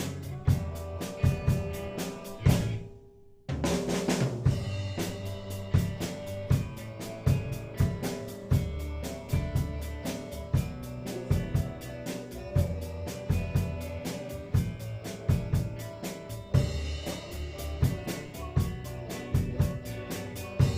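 A band playing, with the drum kit to the fore: a fast, even run of cymbal ticks over kick and snare hits. The band stops for about a second near the three-second mark and comes back in on a loud hit.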